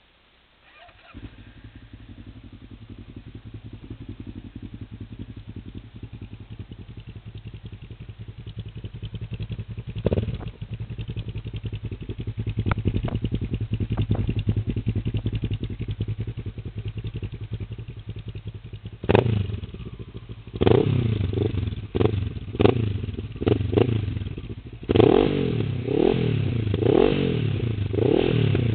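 Honda CB500 S parallel-twin motorcycle engine breathing through an open stainless DAM round exhaust with no dB-killer: it starts about a second in and idles steadily. About two-thirds of the way in, a quick run of short, loud throttle blips begins, each rising and falling in pitch.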